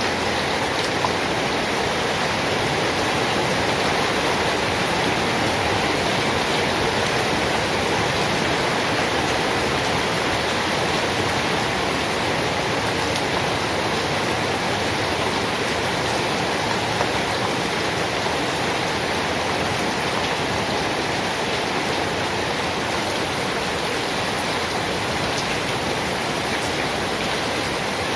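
Steady heavy rain: a dense, even hiss of falling rain.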